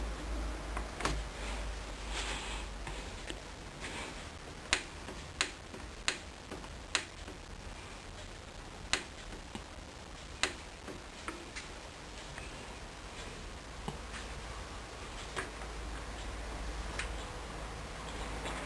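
Sharp, irregular clicks from the control panel of a Hoover Dynamic Wash washing machine as its buttons and programme selector are worked, heard over a low steady hum. The clicks come closest together in the middle of the stretch.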